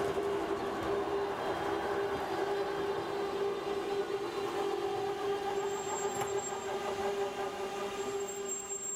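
Rhätische Bahn ABe 4/4 III electric motor car and its coaches rolling slowly past, with a steady whine running through the rumble of the wheels.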